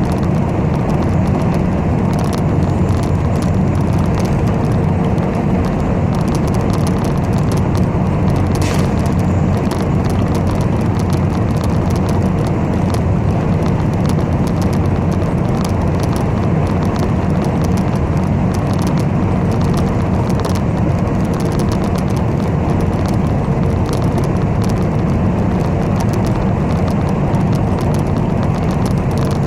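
Steady engine and road noise of a moving city bus, heard from inside the passenger cabin, with one brief click about nine seconds in.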